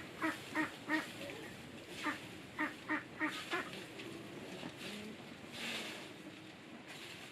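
Ducks quacking: a run of short, quick calls through the first four seconds or so, then fewer and fainter.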